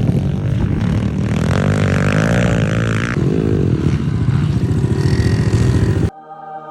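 Pit bike engines running loud and revving up and down. The sound cuts in suddenly and stops abruptly about six seconds in.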